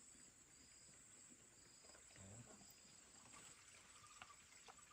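Near silence with faint insects: a steady high-pitched hum and a short chirp repeating about once a second. A brief murmured voice comes about two seconds in, and a couple of small clicks come near the end.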